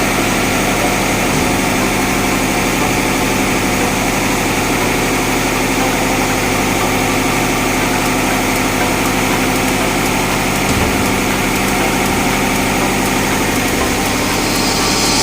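Tugboat engine-room diesel machinery running steadily, a loud, even hum with several steady tones. A short hiss starts near the end.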